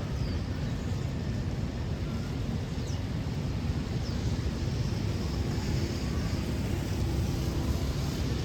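Outdoor city ambience: a steady low rumble of traffic under a faint hiss, with a few faint high chirps.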